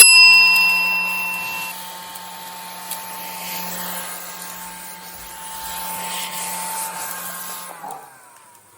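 SilverCrest mini desk vacuum's small electric motor running with a steady hum and whine, switching off about eight seconds in. A sharp ringing clink sounds right at the start.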